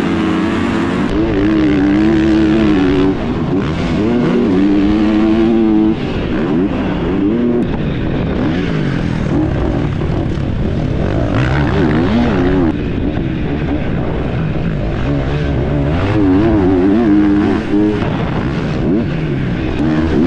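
Motocross dirt bike engine revving hard and easing off over and over, its pitch climbing and falling as the bike races. Several times the sound drops suddenly for a moment.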